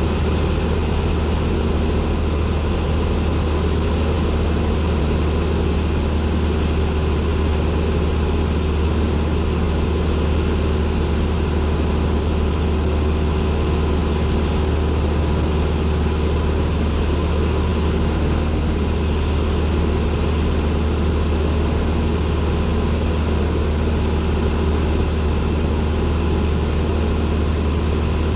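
Cessna 172N's four-cylinder Lycoming engine and propeller heard from inside the cockpit: a loud, steady drone holding one unchanging power setting throughout.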